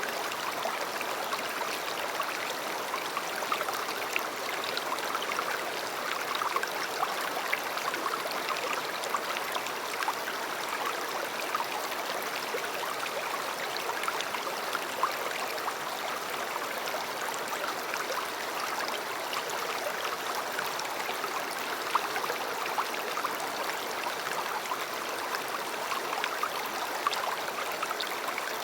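River water flowing steadily, a continuous rush with fine splashes and gurgles running through it.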